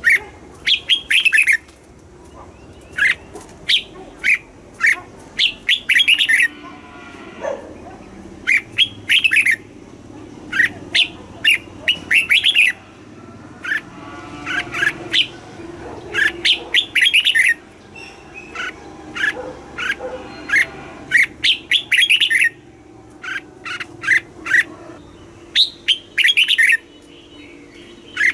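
Red-whiskered bulbul singing: short phrases of a few quick, bright, clear notes, repeated every second or two, with fainter chirping between them.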